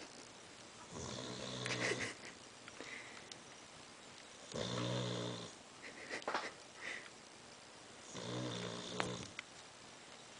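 A sleeping dog snoring: three snores, each about a second long, roughly three and a half seconds apart, with small clicks between them.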